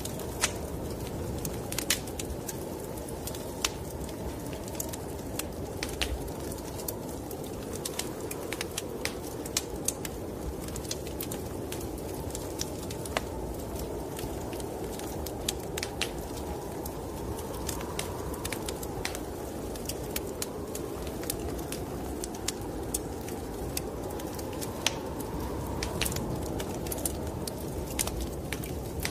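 Wood fire crackling in a fireplace, with irregular sharp pops and snaps, over a steady low rush of snowstorm wind that swells a little now and then.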